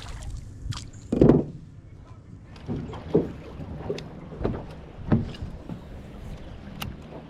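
River water lapping and slapping against a small boat's hull in irregular soft swells, the strongest about a second in, with a few light sharp clicks.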